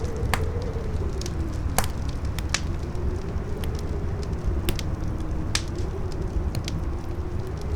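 Campfire crackling with scattered sharp pops, over a strong wind that howls in a low, wavering tone with a steady rumble beneath.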